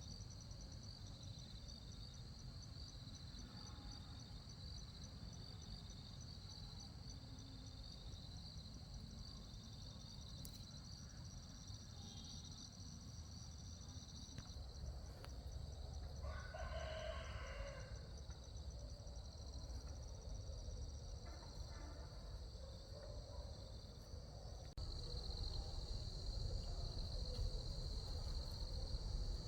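A rooster crows once, a call of about two seconds a little past the middle, over steady high-pitched insect chirring that grows louder near the end.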